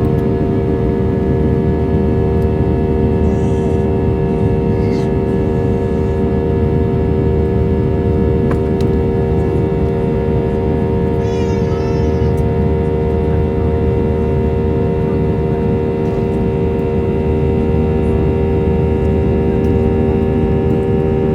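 Aircraft jet engines running at a steady level: a loud low rumble with several steady whining tones above it. A brief high warbling sound comes about halfway through.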